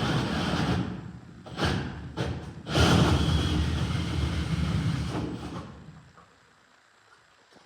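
A drill spinning a Milwaukee adjustable drywall hole cutter through drywall: it runs, eases off briefly about a second in, gives a few short bursts, then runs hard again before winding down and stopping about six seconds in.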